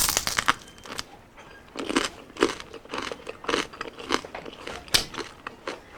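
Biting and chewing crispy pata (deep-fried pork knuckle): a sharp crunch as the bite lands, then a run of crackly crunches as the crisp skin is chewed, about two a second.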